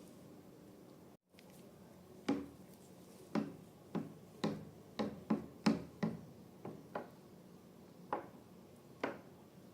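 Slime being handled, giving about a dozen sharp popping clicks at irregular intervals, one or two a second, starting about two seconds in.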